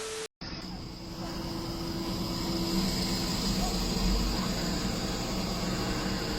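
Steady vehicle engine and road noise that slowly grows louder, with a faint high whine held throughout.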